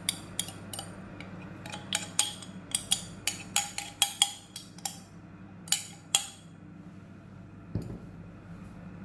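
Spoon clinking and tapping against a glass as ground spice powder is put into it: an irregular run of sharp clicks over the first six seconds or so, then one duller knock near the end, over a steady low hum.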